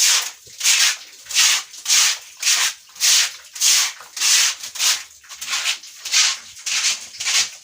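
A broom sweeping a pig pen floor in quick, even strokes, about two a second, each a loud scraping swish.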